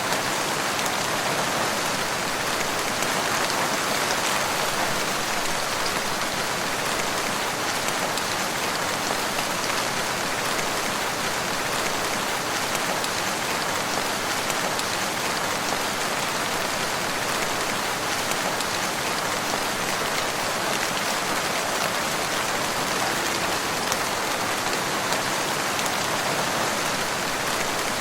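Steady rain falling, an even hiss with scattered individual drops and no thunder.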